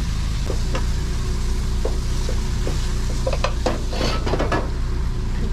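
Metal utensils and dishes clinking and scraping in a busy food truck kitchen, scattered knocks that thicken into a run of clatter about three and a half seconds in, over a steady low hum and hiss.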